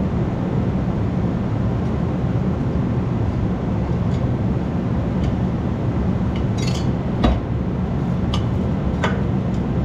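Tools and metal exhaust parts clinking now and then during reassembly of a truck engine, six or so light clinks at irregular times with the sharpest about seven seconds in. Under them runs a steady low rumble.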